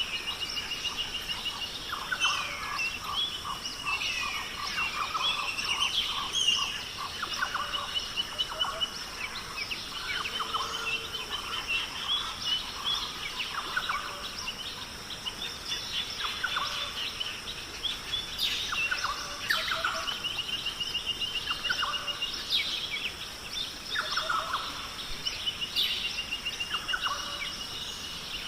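Several wild birds singing and calling, one repeating a rapid, even trill every few seconds among scattered chirps, over a steady high hiss.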